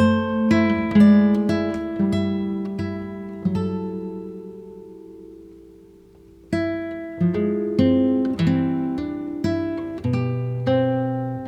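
Acoustic guitar music: plucked notes and chords about every half second. About a third of the way in, one chord is left to ring and fade before the playing picks up again.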